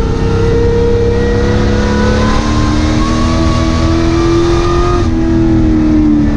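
Racing pickup truck's engine heard from inside the cab under load, its pitch climbing steadily for about four seconds, then easing off and falling about five seconds in.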